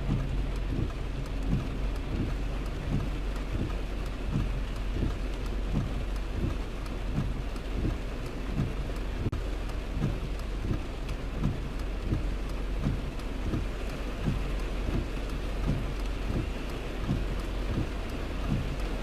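Steady rain falling, with a run of low thuds about twice a second as drops hit a surface.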